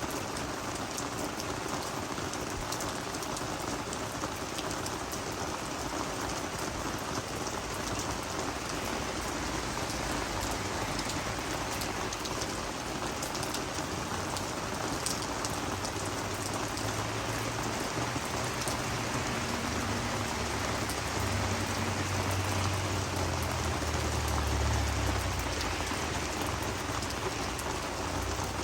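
Steady rain falling on garden vegetables and flowers, a dense patter of drops on leaves. A low rumble builds in the second half and is strongest near the end.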